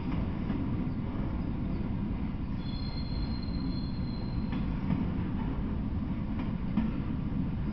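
Freight train of autorack cars rolling past: a steady low rumble of steel wheels on rail. About two and a half seconds in, a thin high wheel squeal is heard for about a second and a half, and a few faint clicks fall here and there.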